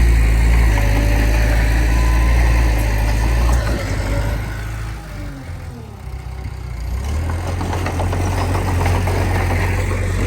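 Heavy diesel engine of earthmoving machinery running steadily. It drops away with a falling pitch about four to five seconds in, then comes back up around seven seconds.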